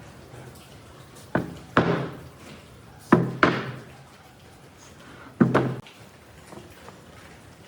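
Five heavy knocks, each with a short ringing tail: two pairs, then a single one.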